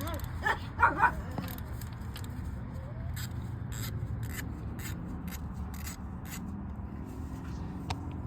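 A dog gives a few short yelps or whines about a second in. Scattered light clicks follow, typical of hand tools on metal.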